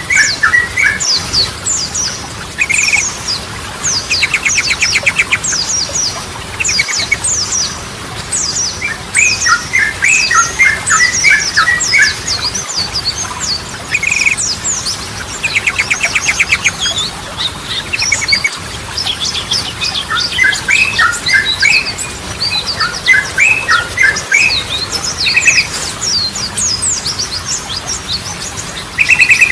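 Sooty-headed bulbul (trucukan) in full song: a continuous stream of quick, bright chattering phrases. Twice, about four and about sixteen seconds in, the song breaks into a fast rattling trill.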